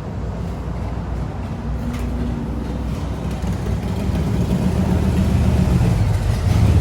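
Truck engine running with a low rumble that grows steadily louder.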